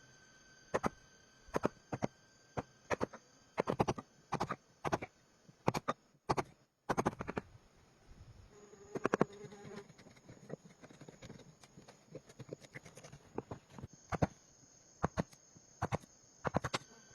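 Irregular sharp knocks and clicks, several in quick succession around four and nine seconds in, over a steady high-pitched tone.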